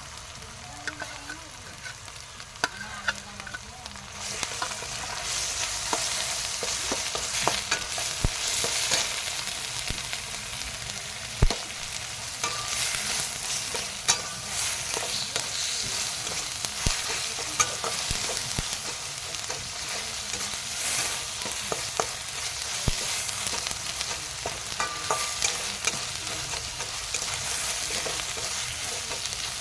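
Chicken curry sizzling as it fries in a pan, stirred with a spatula that clicks and scrapes against the pan again and again. The sizzle grows louder about four seconds in.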